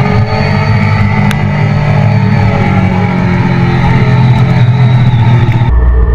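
Motorcycle engine running steadily, with a single sharp click a little over a second in. Near the end the sound cuts abruptly to a deeper, duller engine rumble.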